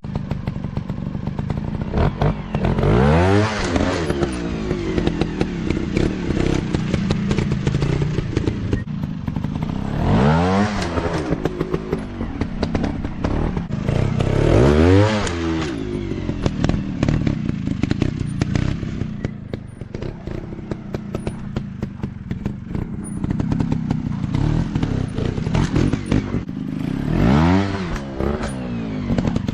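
Dirt bike engines running off-road, revving sharply up and dropping back about four times, with many short knocks and clatters throughout.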